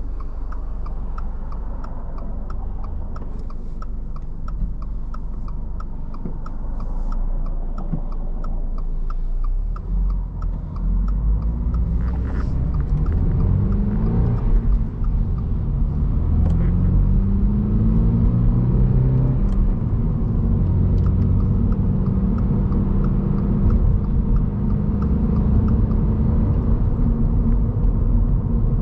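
Inside a 2023 Subaru BRZ's cabin: the turn-signal relay ticks steadily over a low engine rumble for about the first ten seconds. Then the 2.4-litre flat-four accelerates, its pitch rising in several sweeps broken by gear changes, and settles into a steady cruise in the last seconds.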